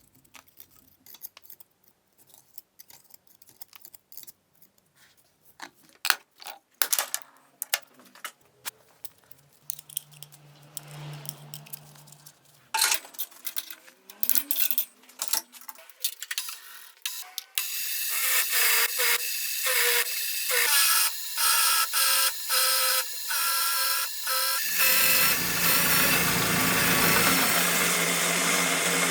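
Clicks and knocks of metal parts and tools being handled at a workbench. Then a power tool starts running with a steady whine, stopping and restarting in short bursts. Near the end it runs continuously and heavier, as if under load.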